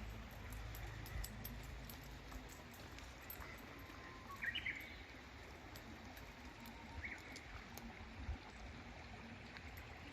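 Faint outdoor ambience with a steady low hiss, broken by a short burst of bird chirps about four and a half seconds in and a brief chirp near seven seconds.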